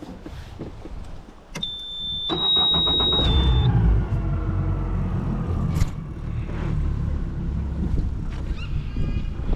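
Boat outboard motor being started with the key. A steady high-pitched warning beep sounds about one and a half seconds in, the engine cranks and catches, the beep stops near four seconds in, and the motor then runs steadily.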